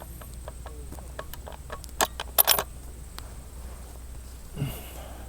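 A run of small metallic clicks and clinks from handling a rifle and its gear, loudest in a cluster about two seconds in. A brief low grunt-like voice sound near the end.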